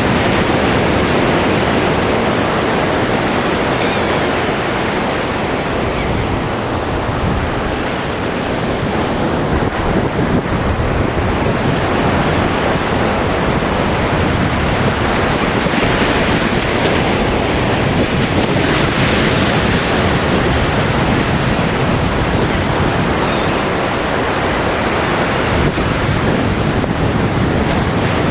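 Ocean surf: waves breaking and washing ashore in a continuous, dense rush with slow swells in strength.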